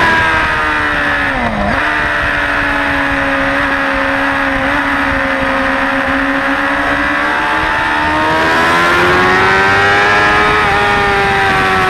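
Suzuki GSX-R600 inline-four sportbike engine heard from the rider's seat with wind rushing past: the engine note falls as the bike slows into a corner, with a gear change about a second and a half in, holds steady through the bend, then rises again as the bike accelerates out, with another brief shift near the end.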